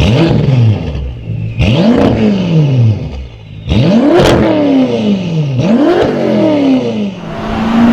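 BMW M6 engine and exhaust revving in four sharp blips, each jumping up quickly and sinking back over about a second. Near the end it holds a steadier note that slowly rises.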